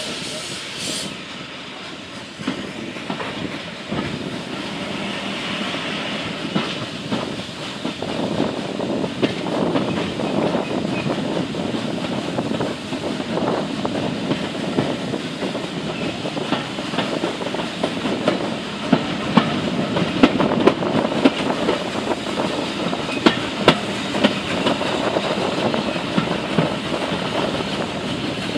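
Train carriages rolling out of a station and gathering speed, wheels clicking over the rail joints more often and louder as the train speeds up. A hiss of steam is heard in the first second.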